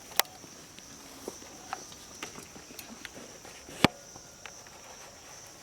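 Steady high-pitched insect chirring, crickets, with scattered small clicks and knocks; two sharp, louder clicks come shortly after the start and just before four seconds in.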